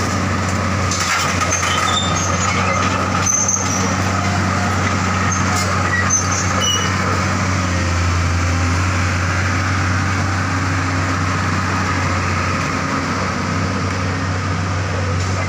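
Heavy diesel engine running steadily at a constant speed, a low, even drone.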